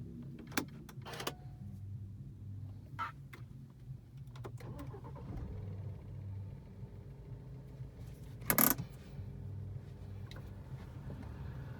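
BMW E90 engine idling steadily, with a few sharp clicks in the first few seconds and a brief, loud rushing burst about two-thirds of the way through.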